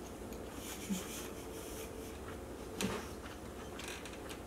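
Close-miked eating sounds: chewing and rustling mouth and food-handling noises, with two short knocks, about a second in and again two seconds later.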